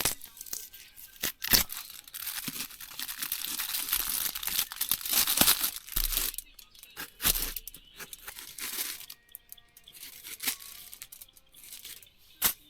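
Rustling, crinkling and tearing noises with scattered sharp clicks, busiest in the first half and thinning out later.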